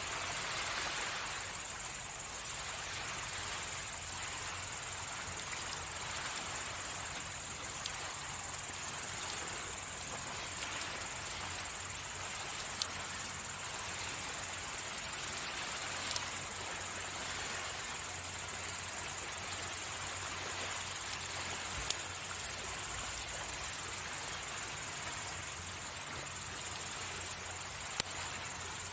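Wood fire crackling, with a handful of sharp pops scattered through, over a steady wash of waves on the shore and a continuous high trill of crickets.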